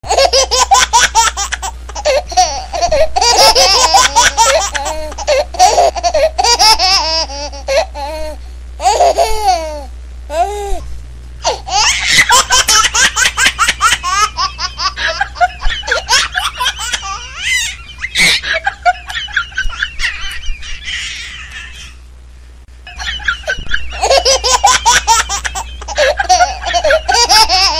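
Laughter in repeated choppy bursts, with short lulls about ten seconds in and again a few seconds before the end, over a steady low hum.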